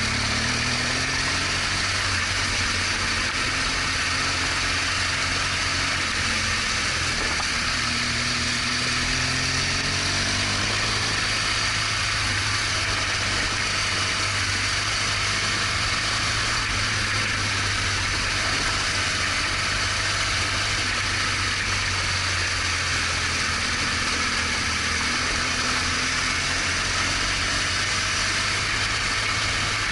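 BMW R1200GS Adventure's boxer-twin engine running under way, its pitch rising and falling a few times, beneath a steady hiss of wind and road noise.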